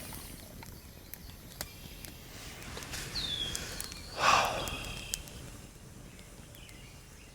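Campfire crackling and popping in sharp scattered snaps. About three seconds in comes a thin high whine that drops and then holds, and just after four seconds a louder rushing burst, the loudest thing in the stretch.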